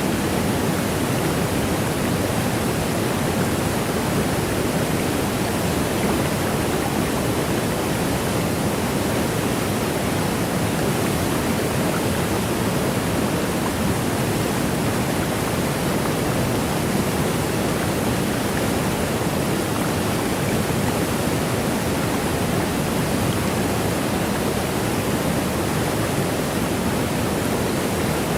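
Waterfall: water rushing down in an unbroken, even hiss, with no splashes or changes standing out.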